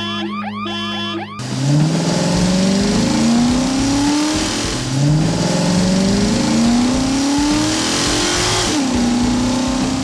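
Music for about the first second and a half, then a vehicle engine sound effect accelerating: its pitch climbs in a series of rising runs, like shifting up through gears, twice over, then drops and holds steady near the end.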